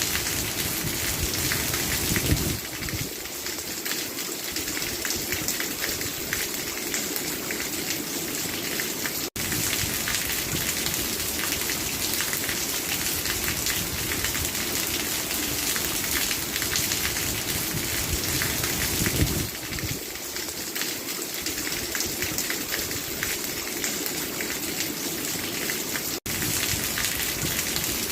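Steady rain falling and pattering on a surface, with two very brief dropouts in the sound, one about nine seconds in and one near the end.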